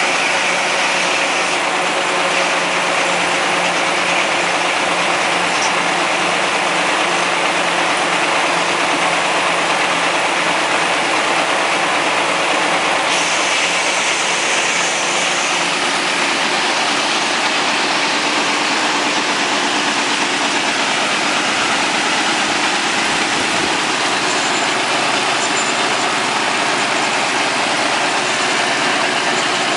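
Vintage Caterpillar D13000 diesel engine running steadily, driving a sawmill.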